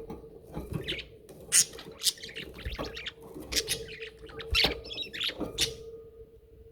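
Pet budgerigars chattering: a quick run of short chirps and scratchy warbles with a few sharp clicks, over a steady hum.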